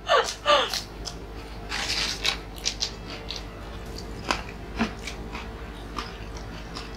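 Crunchy snack crackers being bitten and chewed close to the microphone: scattered sharp crunches, with a short laugh in the first second.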